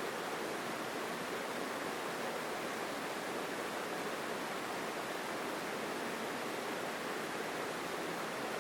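Mountain stream rushing steadily over rocks, a strong, even rush of water heard up close.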